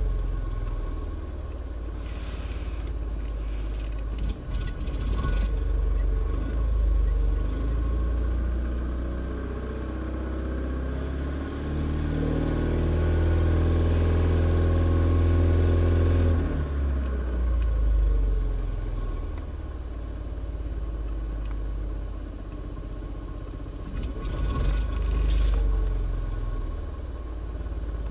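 Small car's 1.2-litre petrol engine running. About eleven seconds in the revs climb, hold high for around four seconds, then drop back to a lower steady speed.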